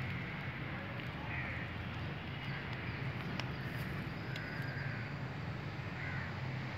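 A few short bird calls, about three, spaced a second or more apart over a steady low background rumble.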